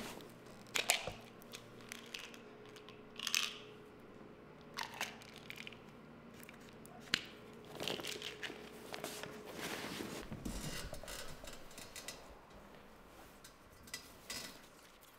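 Soft rustling, crinkling and small clicks of a fabric backpack being handled in someone's lap, in scattered bursts. A faint steady hum sits under the middle stretch.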